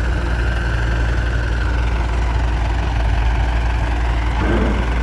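Heavy diesel engine idling steadily, with a thin high whine over it for roughly the first three seconds.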